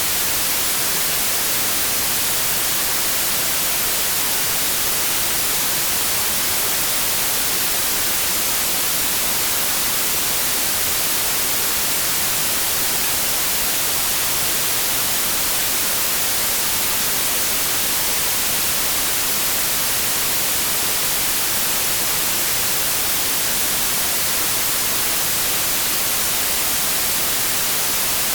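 Synthetic white noise: steady, even static hiss with no change in level or character.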